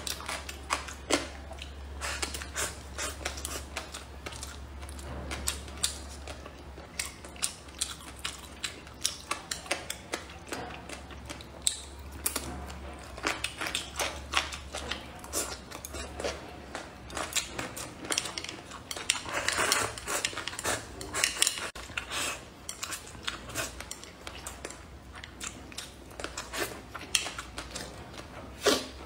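Close-miked eating sounds: biting and chewing braised pork belly and boneless chicken feet, with chopsticks clicking against a porcelain bowl, a steady stream of short clicks and smacks. A low steady hum sits underneath and fades about halfway through.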